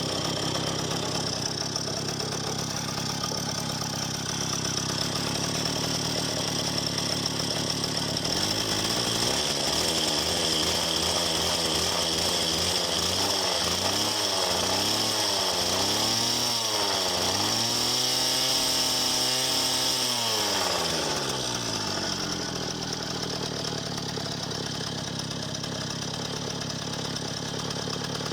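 Soviet D-8 small two-stroke single-cylinder bicycle engine running on its first start with a Novikov electronic ignition. It idles at first, then from about nine seconds in it is revved up and down several times, held high briefly, and drops back to idle for the last several seconds.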